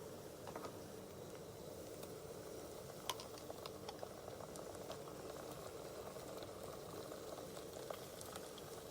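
Ginger-garlic paste frying in a pan of paneer curry: faint, steady sizzling with a few small crackles, over a low steady hum.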